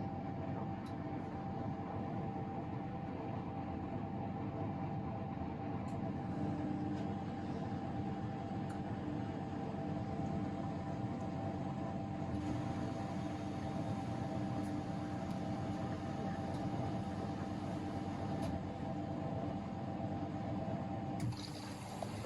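Miele Novotronic W913 washing machine running its drain and spin after the second rinse: a steady motor whine over a rushing noise, the whine cutting off with a click near the end.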